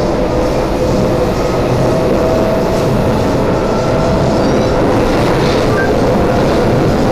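SMRT C751B metro train, cross-coupled set 316/319, running at speed: a steady rumble of wheels on rail with a faint whine from the motors.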